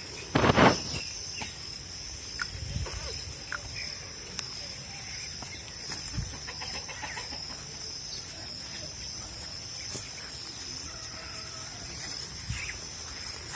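Chickens clucking now and then over a steady high chirring of crickets, with one loud short sound about half a second in.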